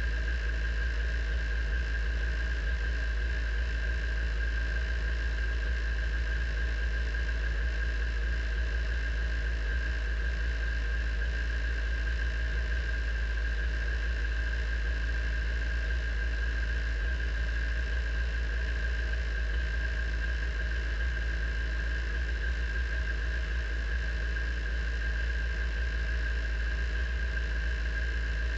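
Radical sports racing car sitting stationary with its engine idling: a constant high whine over a low rumble, unchanging throughout.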